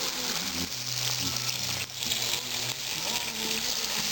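Food frying in a pan over a log fire, a steady sizzle, with a low steady drone underneath for about two seconds in the middle.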